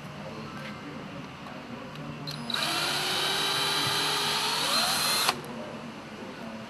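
A power tool runs for about three seconds, starting about two and a half seconds in. Its pitch rises near the end, and then it stops suddenly.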